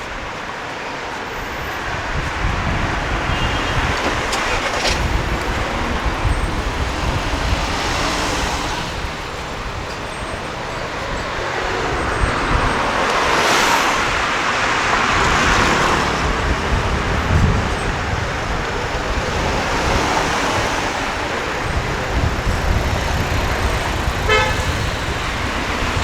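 City street traffic: cars driving past with a steady hum of engines and tyres, swelling loudest as vehicles pass about halfway through, and a car horn toots.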